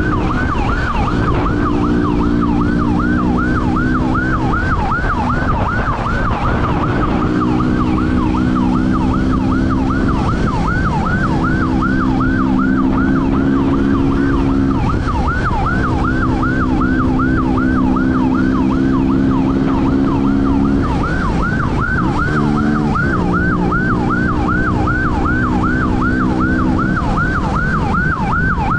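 Police siren in a fast yelp, rising and falling about two to three times a second without a break. Under it, a vehicle engine runs hard, its pitch stepping every few seconds as it shifts gears during a pursuit.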